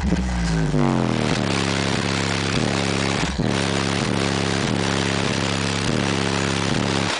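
Bass-heavy music played loud through a van's car-audio system of eight subwoofers, run off an MB Quart amplifier at under 100 watts per sub. Sliding pitch sweeps in the first second or so, then a steady repeating beat; the sound cuts out right at the end.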